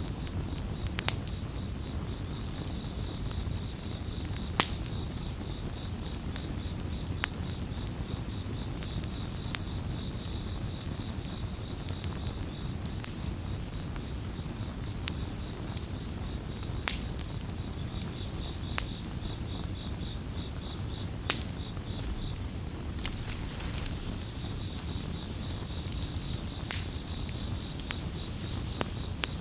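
Campfire burning with a steady low rush and sharp crackling pops every few seconds. Crickets chirp over it in long pulsed trills that break off for a few seconds midway.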